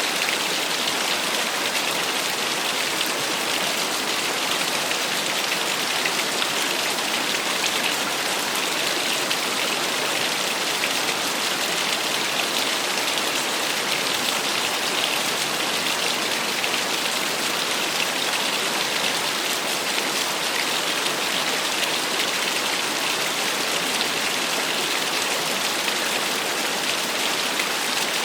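Small waterfall splashing: a steady, even rush of falling water with a fine spattering hiss.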